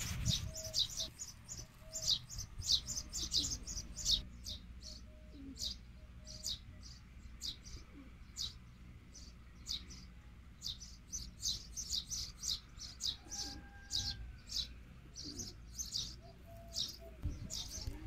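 Small birds chirping: quick high chirps, several a second, going on throughout, with a few lower calls mixed in. A low rumble comes up near the start and again near the end.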